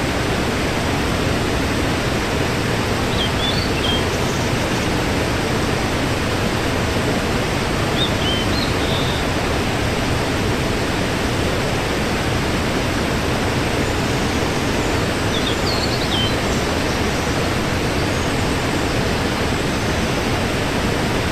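Waterfall, a steady rushing of water, with a few short high chirps now and then over it.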